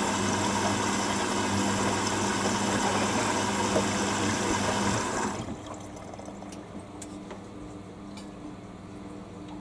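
Hoover washer dryer filling with water for its first rinse: water rushing in through the inlet with a steady valve hum, cutting off about five seconds in.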